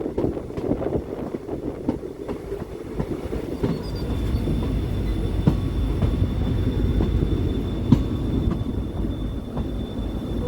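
Passenger train running on the rails, a steady low rumble with scattered clicks of the wheels over rail joints. A thin, steady high whine joins about four seconds in.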